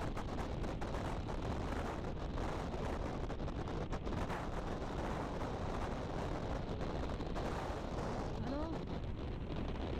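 Wind rushing and buffeting over the microphone of a rider on a motorcycle at speed, a steady crackly rush with engine and road noise under it. A brief wavering tone comes in near the end.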